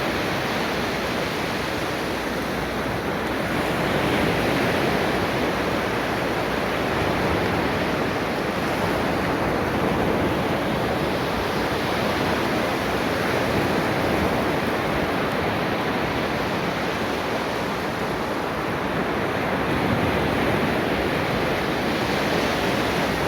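Ocean waves washing on a beach, a steady surf with slow swells every few seconds.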